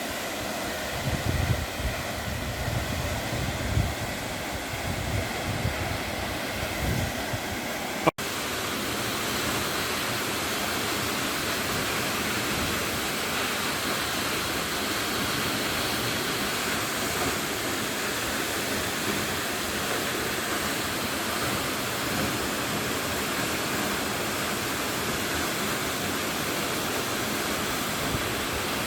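Waterfall rushing: a steady, even wash of falling water. Uneven low rumbles sit under it for the first eight seconds, and the sound drops out for an instant about eight seconds in where the recording cuts.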